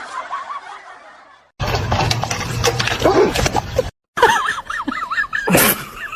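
People laughing across a few short clips that cut off abruptly.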